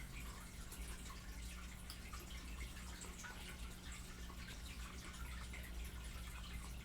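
Close-miked chewing of fried chicken with wet mouth sounds and lip-smacking: a dense, continuous run of small clicks and crackles, over a steady low hum.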